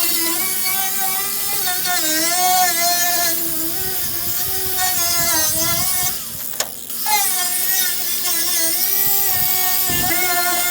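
Angle grinder running against the rusty steel of a truck bed, its whine sagging and recovering in pitch as it is pressed into the metal. About six seconds in it eases off briefly, with a click, then picks back up.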